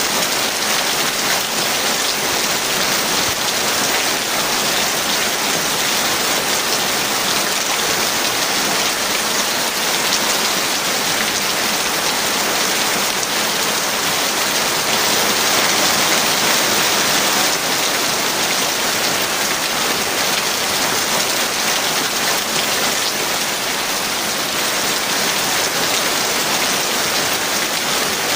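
Heavy rain falling steadily, a dense even hiss of countless drops that swells a little about halfway through. No thunder is heard.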